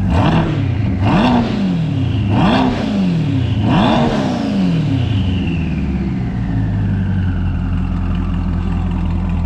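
Twin-turbo C8 Corvette V8 with a custom exhaust, free-revved four times in quick succession, each blip rising and dropping back. After the last blip a high whine falls away over a few seconds as the engine settles to a steady idle.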